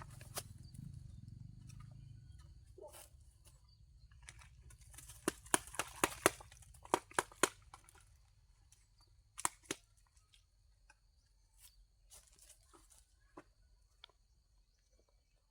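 A run of sharp crunches and clicks, densest from about five to seven and a half seconds in, with two more near ten seconds, over a faint steady high insect tone.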